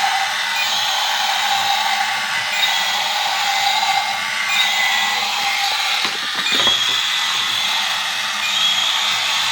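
A small electric motor running steadily with a whirring hiss, with a brief change and a few clicks about six seconds in.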